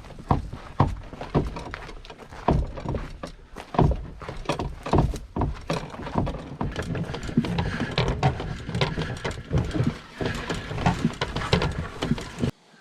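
Footsteps tramping along a forest portage trail under a load of canoe and gear, with irregular thuds and rustling. The sound cuts off suddenly near the end.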